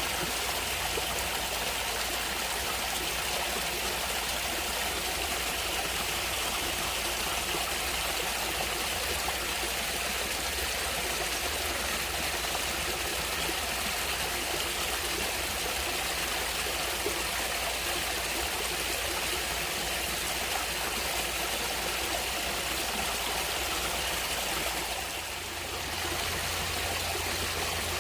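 Stream water flowing and trickling steadily, with a brief softening about 25 seconds in.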